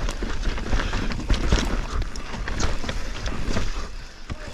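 Canyon mountain bike rattling down a steep, rough dirt trail: tyres crunching over loose dirt and roots, with a constant clatter of irregular knocks from the chain and frame.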